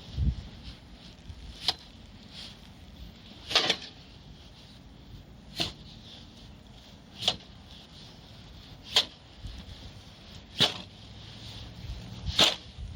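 Snow being cleared by hand in a steady rhythm: seven short scraping strokes, one roughly every second and three-quarters.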